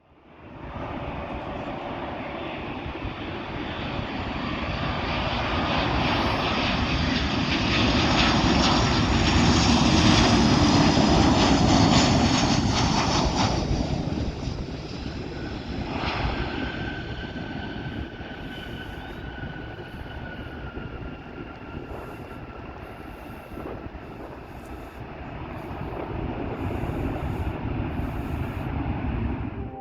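Southwest Boeing 737-700 landing, its CFM56 jet engines growing louder as it approaches and passes, loudest about ten seconds in and dropping off sharply a few seconds later. It then runs on quieter as the jet rolls out, with a thin whine that slowly falls in pitch and a swell again near the end.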